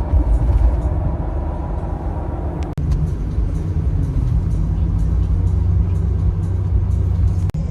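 Road noise inside a moving car: a steady low rumble, broken by two brief cuts, about three seconds in and near the end.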